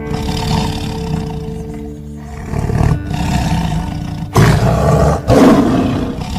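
A big cat roaring several times, the two loudest roars back to back near the end, over background music with steady held notes.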